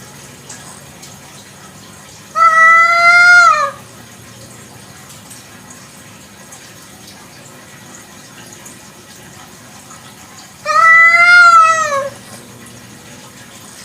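Village cat giving two long, loud meows about eight seconds apart, each rising slightly and then falling at the end, over a steady faint hiss.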